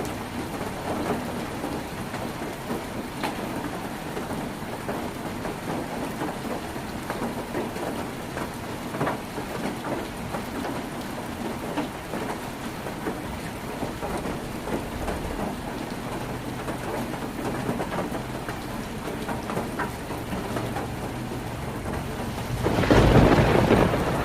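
Heavy rain drumming on a tin roof, a steady hiss dotted with sharp pings of single drops striking the metal. A louder, deep rumble swells up near the end.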